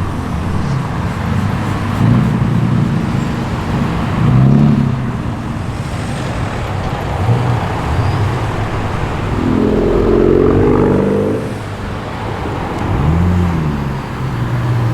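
Car engines running as a slow line of cars drives in, over a steady traffic hum, with several brief rises in engine pitch, the strongest about ten seconds in.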